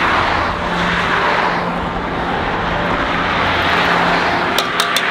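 Highway traffic going past: a steady rush of tyres and engines that swells and eases as vehicles pass. A row of sharp, evenly spaced ticks starts near the end.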